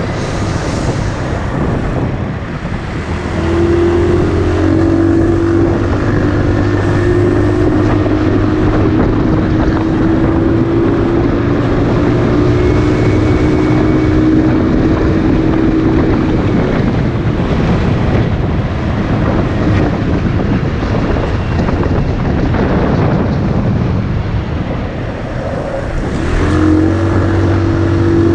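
Motorcycle engine running on the move, under heavy wind noise on the microphone. The engine note comes up strongly a few seconds in and holds steady, fades about halfway through, and comes back near the end.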